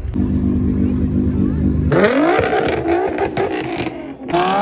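A car engine running steadily, then revving hard about two seconds in, its pitch climbing and dropping back, with a second rev rising near the end.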